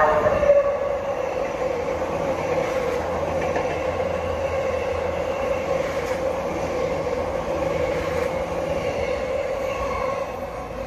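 JR E257 series limited-express electric train passing through a station platform at speed, a steady rumble of wheels and motors. The last of its horn blast dies away in the first half-second, and the rumble drops off near the end as the train pulls away.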